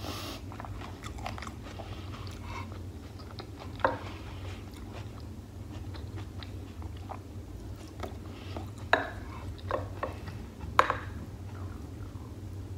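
Close-miked chewing of a mouthful of beef and tomato stew: soft mouth sounds with scattered clicks. A few louder sharp smacks come about four, nine and eleven seconds in.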